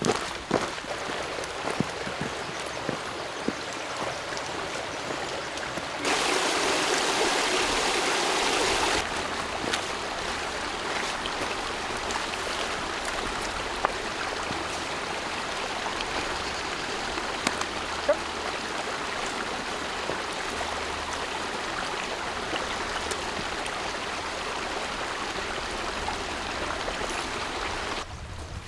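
Steady rush of running water, like a small stream flowing. It gets louder for about three seconds, some six seconds in.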